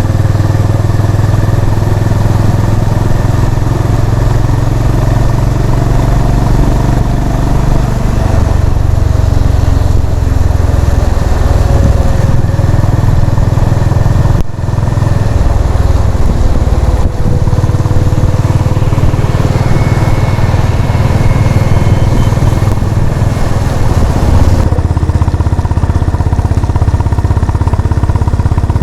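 Honda CB350 RS's single-cylinder engine running steadily while the motorcycle is ridden, with a brief dip in level about halfway through.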